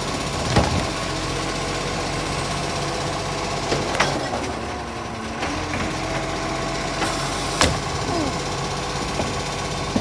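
Garbage truck's diesel engine running steadily, with three sharp knocks about a second, four seconds and seven and a half seconds in.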